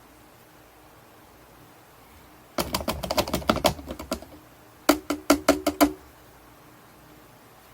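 Quick runs of sharp knocks and clatter against a ringing container, in two bursts about two and a half and five seconds in, while olive drab tint is being mixed into a can of bed liner.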